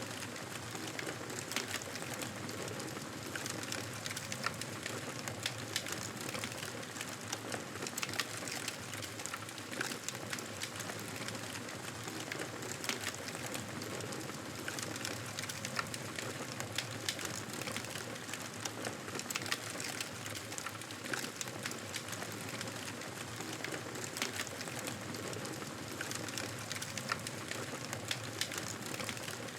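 Wood fire crackling in a fireplace: a steady hiss with frequent irregular sharp crackles and pops.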